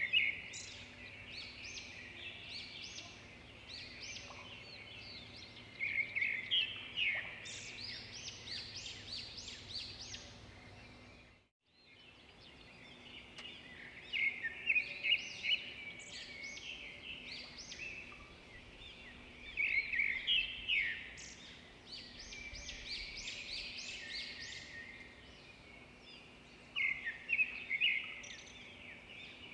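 Swiftlets twittering: rapid clusters of high, dry chirps that swell into denser bursts every few seconds, over a faint steady hum. The sound cuts out briefly near the middle.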